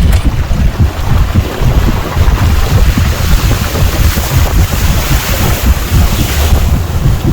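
Strong wind buffeting the microphone: loud, gusty low rumble over a steady rushing hiss.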